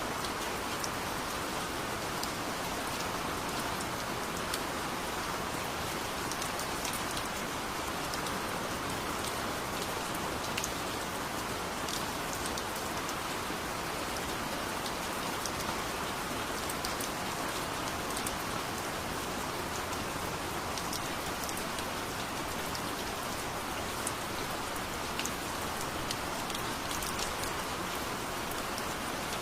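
Heavy rain falling steadily, with scattered sharp ticks of individual drops.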